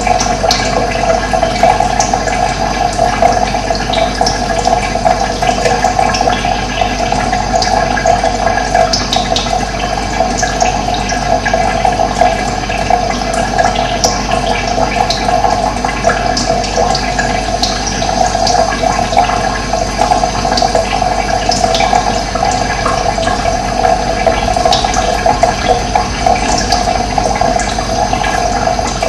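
Running water flowing and splashing steadily, with scattered short bird chirps over it.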